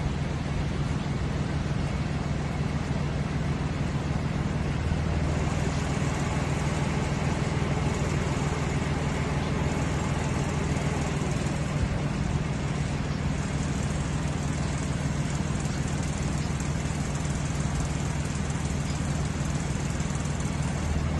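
Floodwater of a swollen river rushing steadily, a constant deep rush with no breaks.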